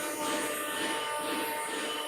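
Blue Elephant 1325 ATC CNC router running, a steady whine over even machine noise.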